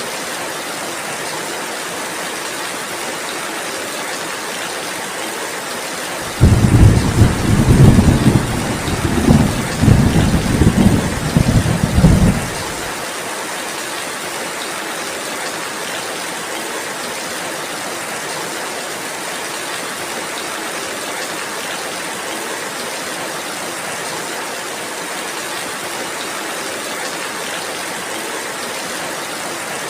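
Steady rainfall, with a loud, deep rumble of thunder that starts suddenly about six seconds in and rolls on for about six seconds before fading back to the rain.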